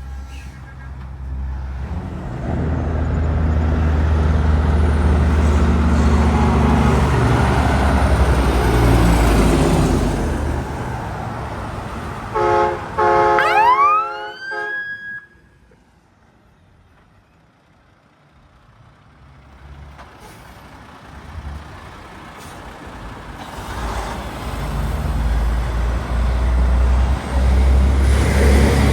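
Heavy trucks passing close on a highway, engines and tyres loud. About twelve seconds in, a truck air horn sounds in several short blasts with a tone sweeping upward over them. The road then goes briefly quiet before another vehicle approaches and passes near the end.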